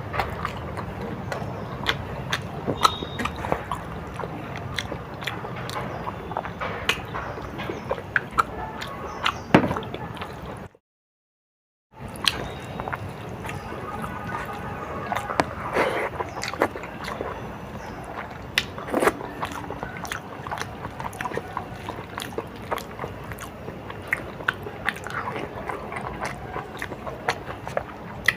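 A person eating a meal of rice and dal close to the microphone, with many quick clicks and crunches of chewing. The sound cuts out completely for about a second some eleven seconds in.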